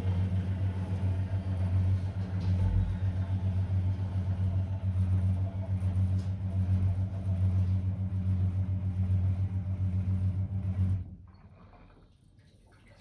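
Blomberg WA391 front-loading washing machine spinning at high speed with a loud, steady low hum, likely its final 1600 rpm spin; the sound cuts off abruptly about eleven seconds in.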